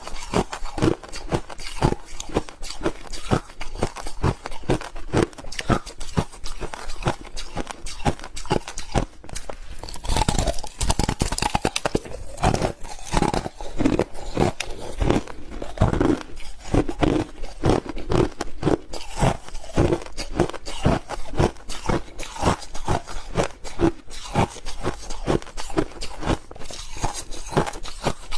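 Crushed ice being chewed close to the microphone: rapid, continuous crunching bites, a little louder about ten seconds in.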